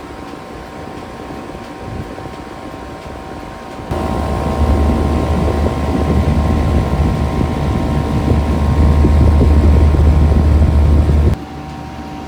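Heat pump outdoor unit running with a steady hum from its fan and compressor, its coil iced over and close to going into defrost. About four seconds in it gets much louder with a deep rumble, which drops back abruptly near the end.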